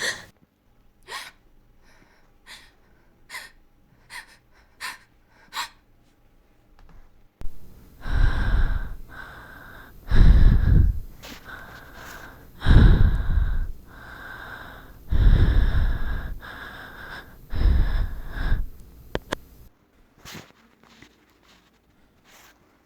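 A woman breathing: first a run of short, faint quick breaths, then about seven seconds in five loud, heavy breaths roughly two and a half seconds apart, close enough to the microphone to rumble, followed by a few faint short breaths near the end.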